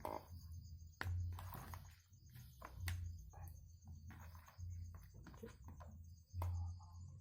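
Night insects chirping in a steady high pulsing trill, with low rumbling thumps about every second and a half and scattered clicks.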